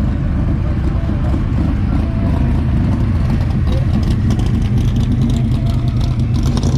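Car engine running at a steady, low idle rumble.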